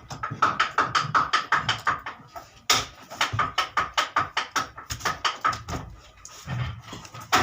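Rapid light tapping or knocking, about five strikes a second, with a brief gap a little over two seconds in.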